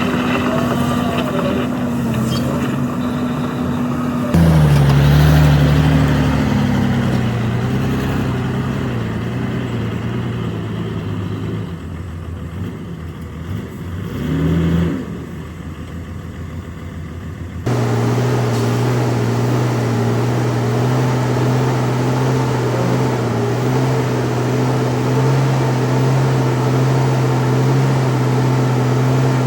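Diesel engines of heavy earthmoving machinery running. The sound changes abruptly about four seconds in and again near eighteen seconds, is loudest just after the first change, and a short rise and fall in engine pitch comes around fifteen seconds in.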